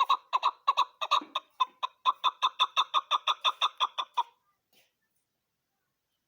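Chukar partridge calling: a fast, even run of short clucking notes, about five a second, that stops abruptly a little past four seconds in.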